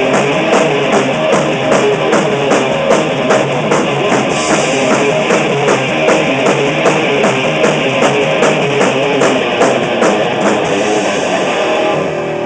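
Live rock band rehearsing: drum kit and guitar playing, with a steady beat of high cymbal strokes about four a second. The playing cuts off suddenly near the end.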